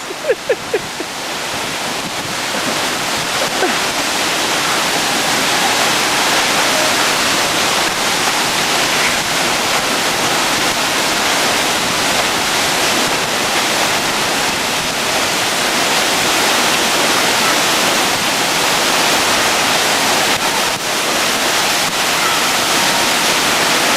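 Victoria Falls waterfall, a loud, steady rush of falling water that swells over the first couple of seconds and then holds.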